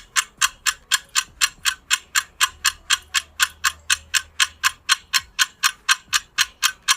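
Ticking-clock sound effect used as a quiz countdown: a steady run of sharp ticks, about four a second.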